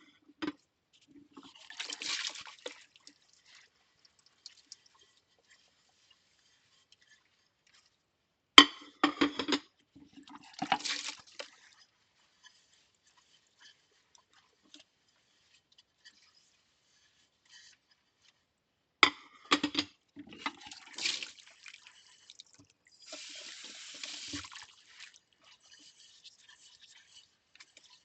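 Ceramic plates being washed by hand. Three sharp clinks come roughly every nine to ten seconds, each followed by a second or so of scrubbing and water noise, with a longer stretch of scrubbing near the end and quiet between.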